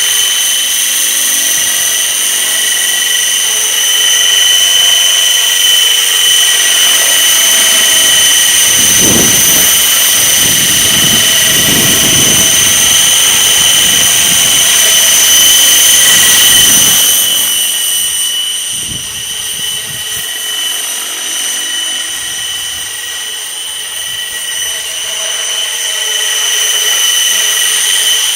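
Outrage Fusion 50 RC helicopter in flight: a steady high-pitched whine from its engine and rotor drive, louder until about 17 seconds in, then fainter. Gusts of wind rumble on the microphone between about 9 and 17 seconds in.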